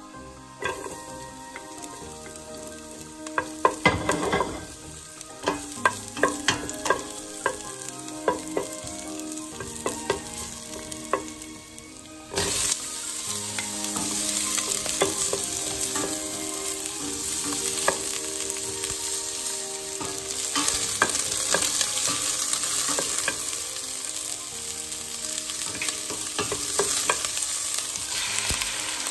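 Sliced ginger frying in oil in a stainless steel pot, with a wooden spatula scraping and knocking against the pot. About twelve seconds in, the sizzling suddenly gets louder and denser as minced garlic goes into the hot oil, and the stirring goes on.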